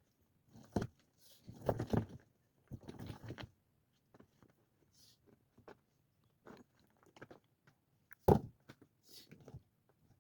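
Irregular hands-on work sounds: two stretches of crunching and scraping early on, scattered small clicks, and sharp knocks, the loudest about eight seconds in.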